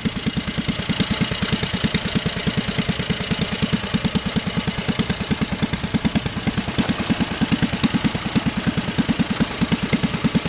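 Engine of a homemade tractor running at idle, with a steady, even beat of about six pulses a second.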